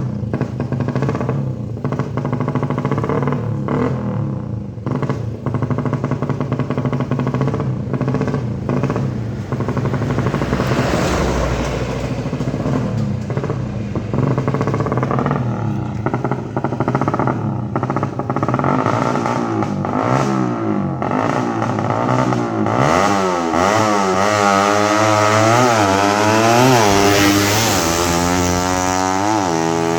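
A 450cc drag bike engine runs at a steady idle with frequent sharp clicks. Over the last third it is revved again and again, the pitch rising and falling about every second or two.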